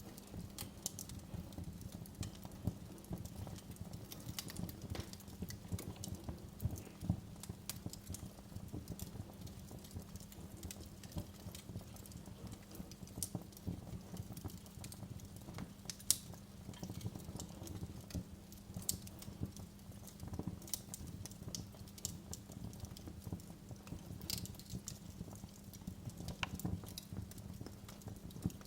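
Wood fire in a fireplace crackling: a steady low rumble of the flames with a constant stream of small pops and sharp snaps, the sharpest snap about halfway through.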